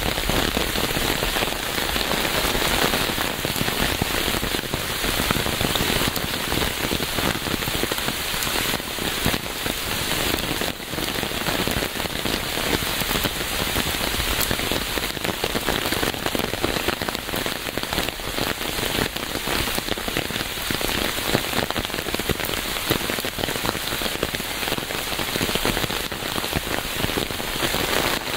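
Steady heavy rain falling, a dense constant hiss with many close drops pattering on a surface.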